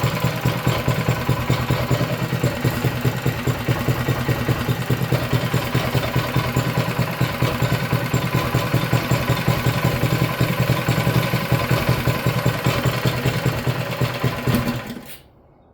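Small single-cylinder mini bike engine idling steadily with an even, rapid pulse, cutting off near the end.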